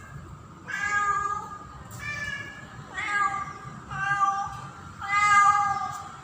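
Female domestic cat in heat calling for a male: a string of drawn-out meows, about one a second, five in all.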